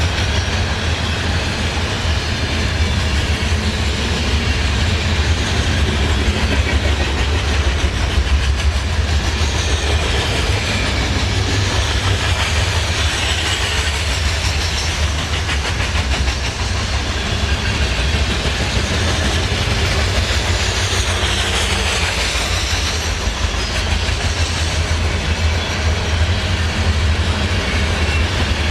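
Train rolling past on the rails: a steady, loud rumble of wheels on track.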